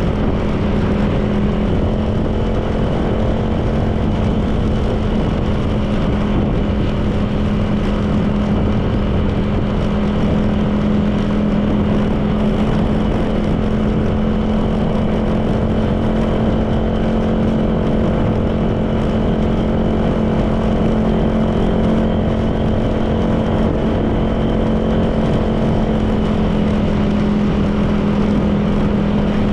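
Honda PCX 160 scooter's single-cylinder engine running steadily at cruising speed, with road and wind noise.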